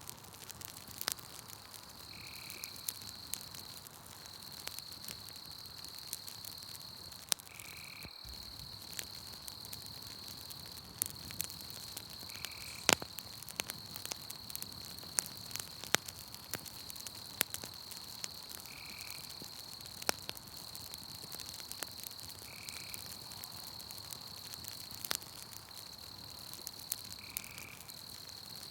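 Campfire crackling with irregular sharp pops, over a steady high insect trill that breaks off briefly now and then. A short animal call, frog-like, repeats every four to five seconds.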